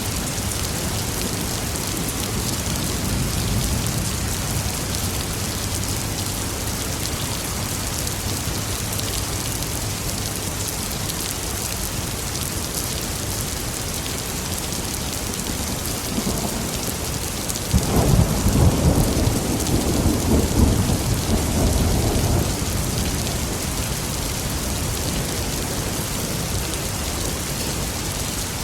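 Steady heavy rain hissing throughout, with a low roll of thunder a few seconds in and a louder thunderclap about 18 s in that rumbles on for several seconds before fading.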